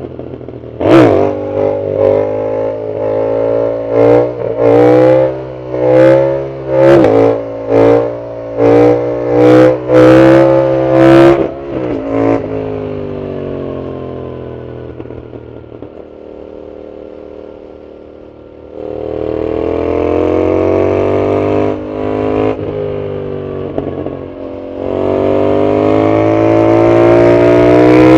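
Yamaha MT-07's CP2 parallel-twin engine through a loud Arrow full exhaust: a quick run of about a dozen sharp throttle blips, then the revs falling away as it coasts. About two-thirds through it accelerates hard, with a brief dip at a gear change and the revs climbing again near the end.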